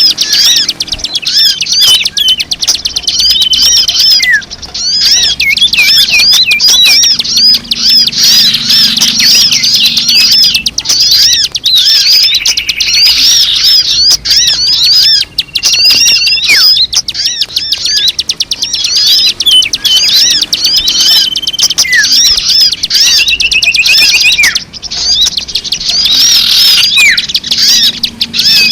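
Dense chorus of small songbirds chirping rapidly, with short whistled notes among the chirps, used as a bird-lure call.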